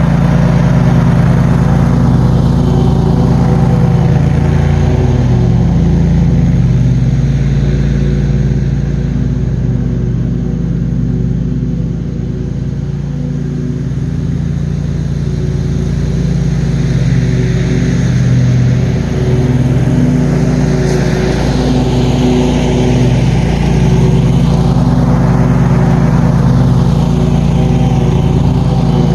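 John Deere QuikTrak 652R stand-on mower's engine running steadily, its pitch dipping and rising slightly now and then.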